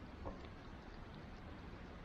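Wood bonfire burning quietly: a low steady rushing with one faint crackle.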